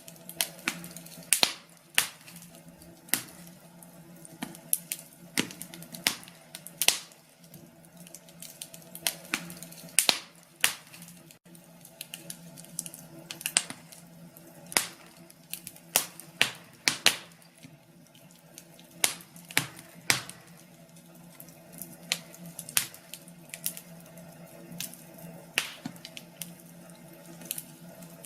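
Fire in a fireplace crackling: irregular sharp pops and snaps, sometimes several in quick succession, over a faint steady low hum.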